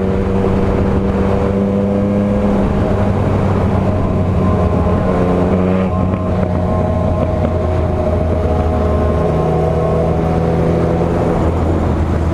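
Motorcycle engine running steadily at high revs over a rush of wind and road noise, its pitch drifting slowly up and down.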